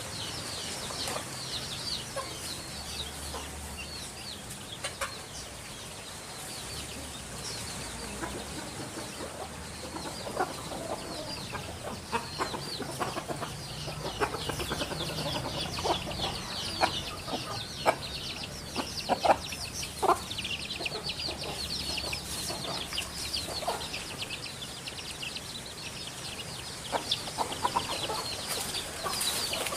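Birds calling in a busy, continuous chorus: many quick high chirps throughout, with scattered louder, shorter notes lower down, thickest around the middle.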